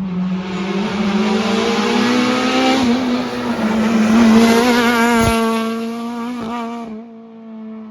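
Rally car engine at full throttle with heavy tyre and road noise. The revs climb over the first three seconds, with a break there like a gear change, then hold as the car passes and fades away.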